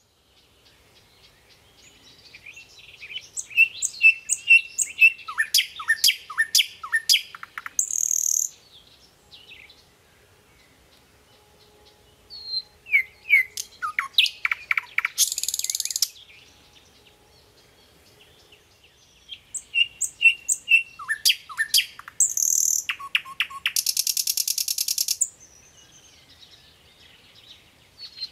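A songbird singing three bouts of quick chirps and short downward whistles, each bout ending in a harsh buzzy rattle, with pauses of a few seconds between them.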